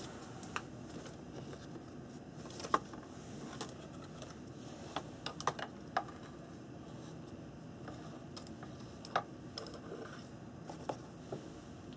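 Scattered light clicks and taps from art supplies being handled on a desk, a dozen or so at irregular intervals over a faint steady room hum.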